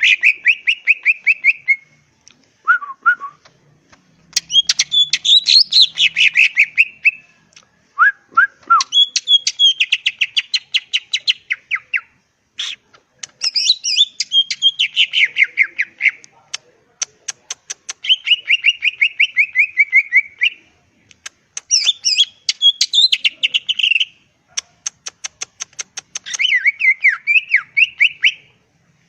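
Green leafbird (cucak ijo) singing vigorously: a run of loud phrases, each a rapid string of sharp chattering and whistled notes lasting two or three seconds, separated by short pauses, with a few brief lower whistles in between.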